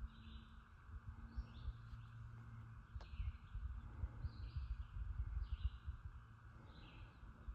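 A bird calling over and over, a short chirping call about once a second, over a steady hiss and a low rumble. A single sharp click about three seconds in.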